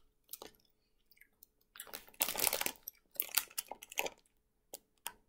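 Gummy candy being chewed and a plastic candy bag crinkling as it is handled and turned over, in a few irregular bursts, loudest about two seconds in.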